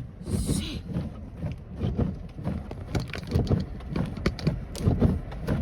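Inside a car driving through a snowstorm: a steady wash of slush and precipitation noise, with frequent irregular low knocks and thumps. The windshield wipers are running fast.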